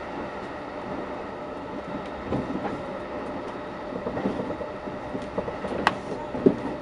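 Passenger train running at speed, heard from inside the carriage: a steady rumble of wheels on rail with faint steady tones and scattered knocks and clicks. There is one sharp high click a little before 6 s and heavier knocks near the end.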